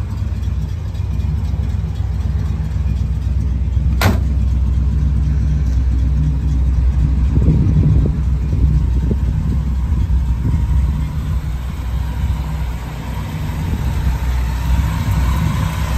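1960 Chevrolet Impala's engine idling steadily, with one sharp click about four seconds in.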